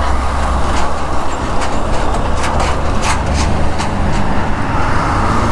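Bajaj Pulsar NS160 motorcycle running at highway speed in heavy truck and bus traffic, with a steady rush of wind over the microphone. A few brief crackles come about two to four seconds in.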